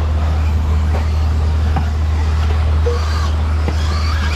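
Radio-controlled stadium trucks racing on the track, heard as a steady low hum with brief faint whines and clicks over it.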